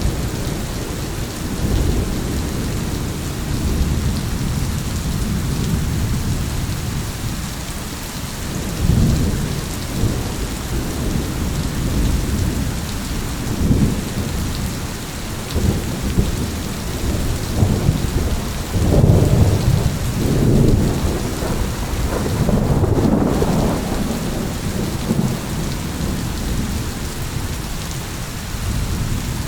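Steady heavy rain with rolling thunder rumbling underneath, swelling several times, most strongly a little past the middle.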